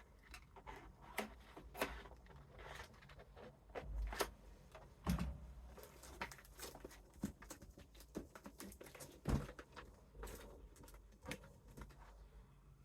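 Handling noise while cardboard pieces are hot-glued on: irregular light taps, clicks and rustles, with a few louder knocks.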